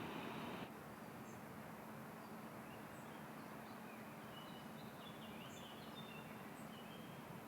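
Small birds chirping faintly and sporadically over a quiet steady outdoor background with a faint low hum. A louder rushing noise cuts off abruptly within the first second.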